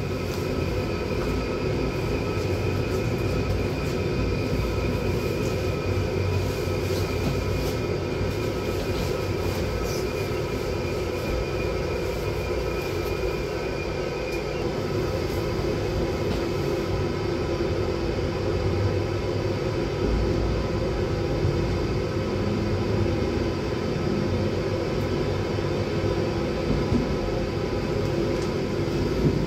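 PKP Intercity Premium electric train running along the track, heard from inside the train: a steady rumble of wheels and running gear, with a high whine that fades out about halfway through.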